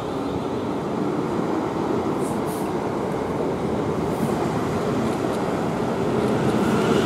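South Western Railway Class 450 Desiro electric multiple unit pulling out of the station and passing close by, a steady noise of wheels on rails and the moving train that grows slightly louder as it gathers speed.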